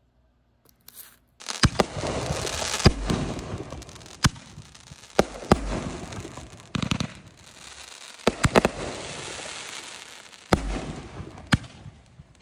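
Hardcore Pyro Tiger 6-inch canister firework shells being fired one after another: a string of sharp booms, with a crackling hiss between them, starting about a second and a half in and dying away near the end.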